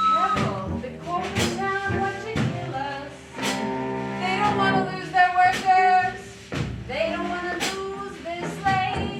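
Music from a live opera performance: singing with instrumental accompaniment, with held, gliding sung notes and sharp struck or plucked notes between them.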